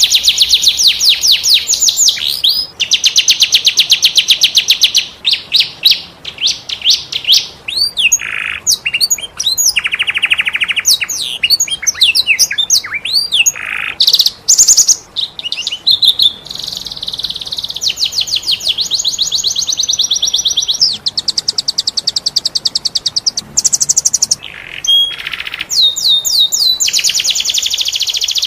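Domestic canary singing a long, varied song of fast rolling trills and sweeping whistled notes, loud and nearly unbroken.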